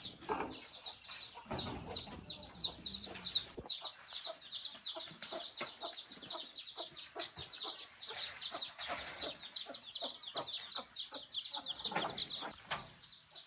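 Chicks peeping rapidly and continuously in high, falling chirps, stopping shortly before the end, with scattered light knocks and clicks.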